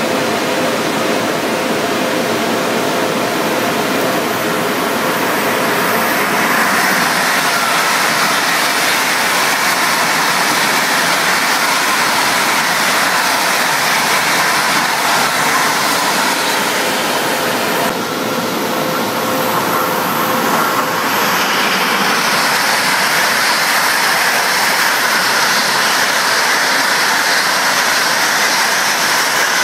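Loud, steady rushing and rumbling of trains on the line as an ICE high-speed train goes by on a nearby track. A faint steady hum is heard under it for the first few seconds.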